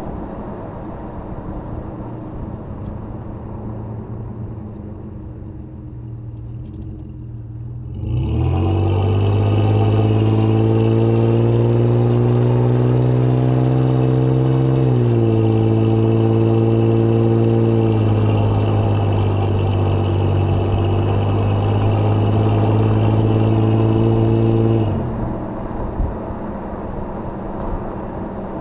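2005 Jeep Grand Cherokee running through a Thrush welded muffler: quieter cruising for about eight seconds, then hard acceleration with the exhaust note climbing in pitch. The note drops at an upshift about halfway through, then holds loud and steady until the throttle is lifted a few seconds before the end.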